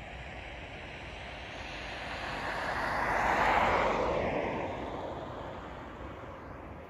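A vehicle passing by: a whooshing rush that swells to a peak about halfway through, then fades away.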